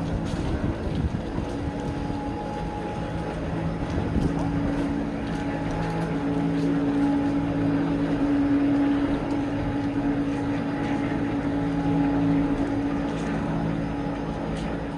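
A machine running with a steady, even hum, its pitch holding level over a rumbling bed of noise.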